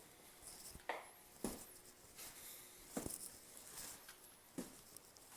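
Faint, scattered taps and soft knocks, four or five over a few seconds, with a light rustle between them.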